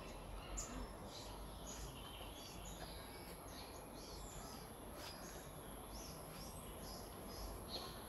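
Birds chirping: many short, high calls in quick succession over a faint low background rumble.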